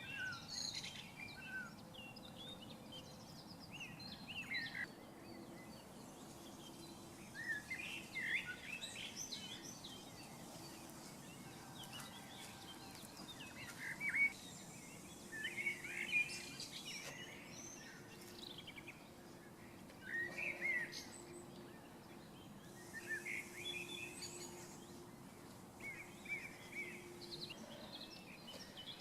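Outdoor birds chirping and calling, many short irregular chirps and quick pitch sweeps, with a faint steady low hum in the background from about halfway through.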